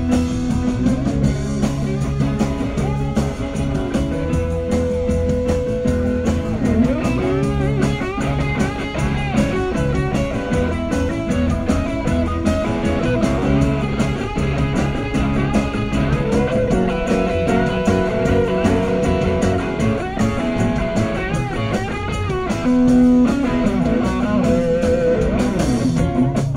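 Live rock band playing an instrumental break between verses: an electric guitar lead with bending notes over bass and drums.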